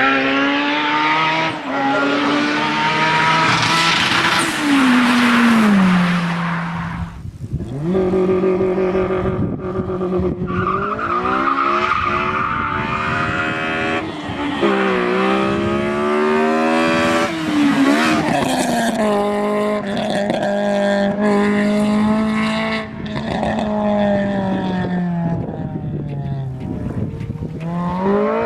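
Honda K20 2.0-litre inline-four engine running at high revs, its pitch climbing and then dropping again several times as it is driven hard through the gears, with a brief lift off the throttle about seven seconds in.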